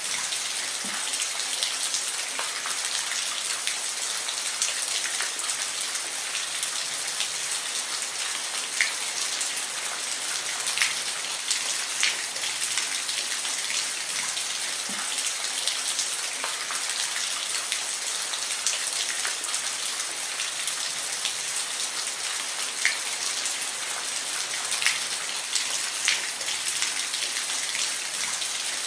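Steady rain falling, a dense hiss with scattered individual drops ticking out distinctly here and there.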